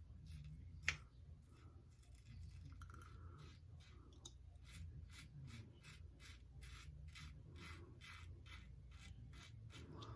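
Wolfman WR2 safety razor scraping through lathered stubble in faint, short strokes, settling into a steady run of about three strokes a second over the second half. A single sharp click comes about a second in.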